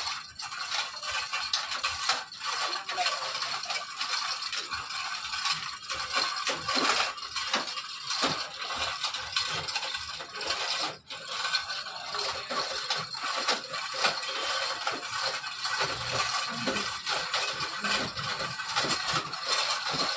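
Metal chain rattling and clicking without a break as a load is hauled up on it, with dense overlapping clinks.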